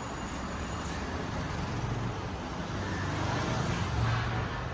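Steady road traffic noise of passing vehicles, with a low engine rumble growing a little louder near the end.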